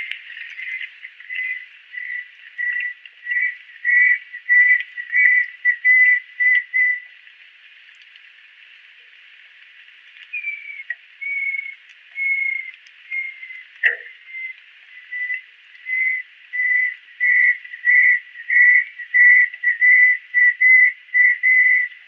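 A bird whistling two runs of clear, evenly pitched notes with a pause of a few seconds between them; each run speeds up and grows louder, and the second opens with a few higher, slurred notes.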